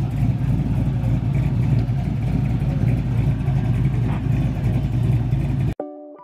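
Steady low rumble of a car engine running. Near the end it cuts off abruptly and soft electronic music with separate plucked notes begins.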